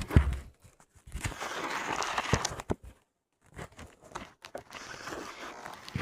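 Rustling and crinkling handling noise with several sharp clicks and knocks, cutting out briefly about three seconds in.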